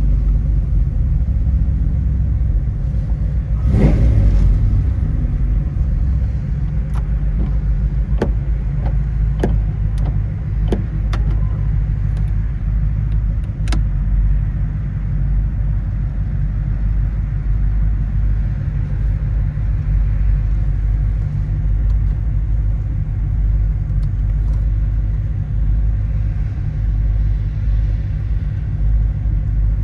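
Fuel-injected Ram Jet 350 V8 of a 1971 Chevrolet Camaro running through headers and dual exhaust: a steady low rumble. There is a brief louder rise about four seconds in and a few sharp clicks later on.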